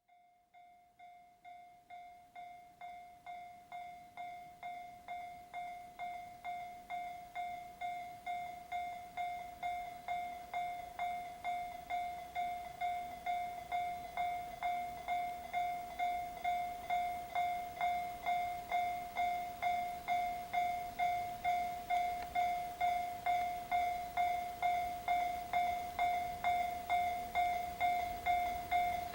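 Railway level-crossing warning bell ringing, a single bell tone struck about twice a second, growing steadily louder.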